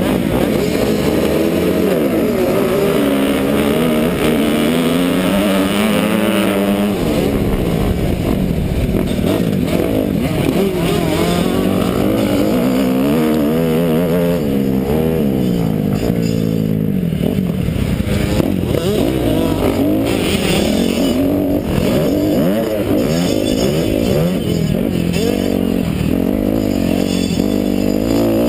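Kawasaki KX250F single-cylinder four-stroke motocross engine racing, its revs climbing and dropping over and over as the rider accelerates, shifts and backs off through the track.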